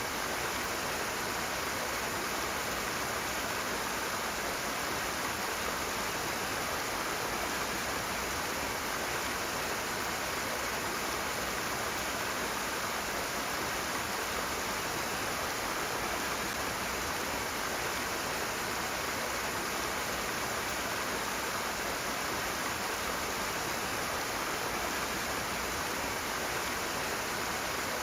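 Rushing water: a steady, unbroken rush of flowing water with no changes.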